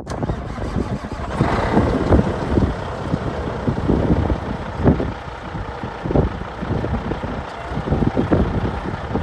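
Peterbilt 379 semi truck running, a rough, uneven rumble with irregular low thumps throughout.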